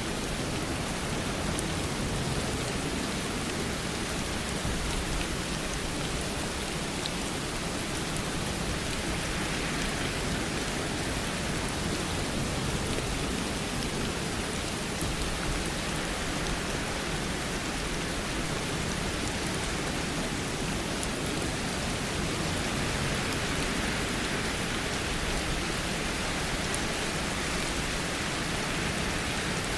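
Steady rainfall: an even hiss with faint, scattered drop ticks.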